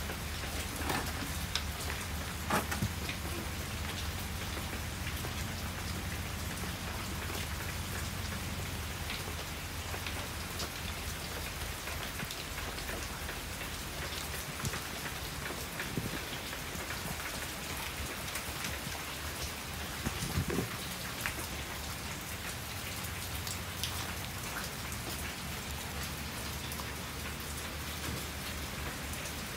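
Steady typhoon rain falling, with scattered sharper drips and a few louder taps of drops landing close by.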